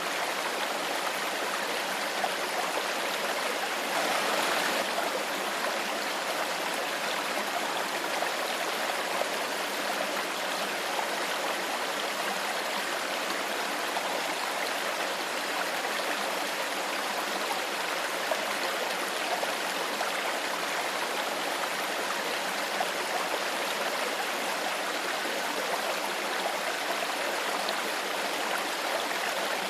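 Clear stream flowing steadily over stones, with small splashes and gurgles; the water briefly swells a little about four seconds in.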